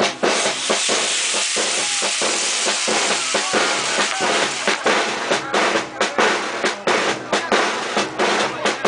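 Fireworks on a castillo, a pyrotechnic tower, going off: a rushing hiss of sparks at first, then a rapid, irregular string of sharp pops and bangs.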